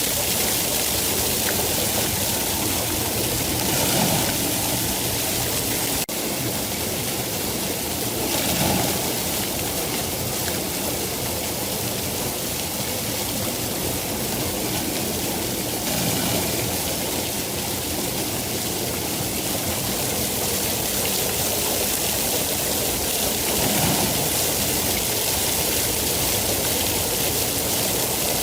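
Steady rain, an even dense hiss that swells briefly a few times.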